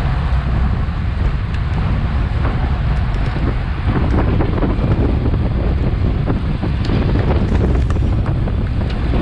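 Wind buffeting the microphone of a bike-mounted Garmin VIRB action camera while riding at speed: a steady, loud, low rumbling roar, with a few small clicks scattered through it.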